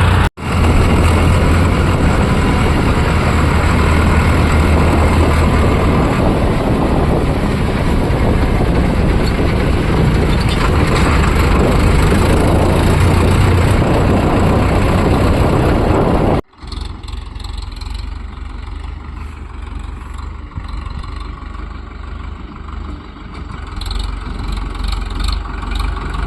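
Tractor engine running loud and steady, then, after a break about sixteen seconds in, a quieter, lower tractor engine rumble.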